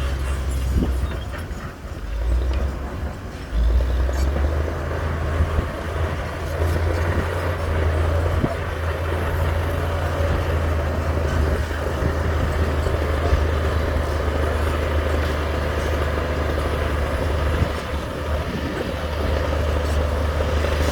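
Heavy diesel construction machinery running under load, a steady low engine rumble that drops briefly about two seconds in and picks up again sharply near the four-second mark.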